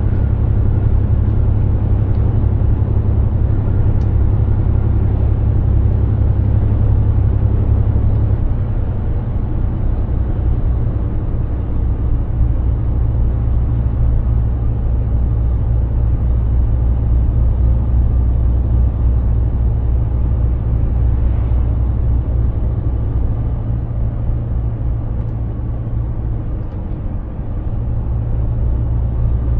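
Mercedes-Benz Actros 2763 truck's straight-six diesel engine running under way, a steady low drone whose note changes about eight seconds in and dips briefly near the end.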